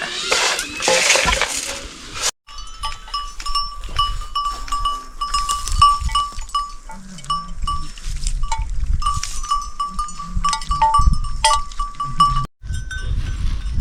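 Livestock neck bells clinking irregularly, over and over, as the animals move. A loud rushing hiss fills the first two seconds before a sudden cut to the bells.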